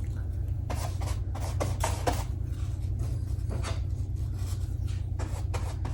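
Paper being handled on a collage: short scattered rustles and rubs, several near the end, over a steady low hum.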